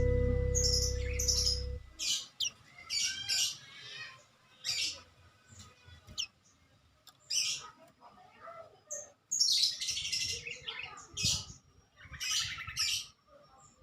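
A songbird singing in short, separate bursts of high chirps and quick trills with brief pauses between them. A strummed acoustic guitar chord rings out and stops in the first two seconds.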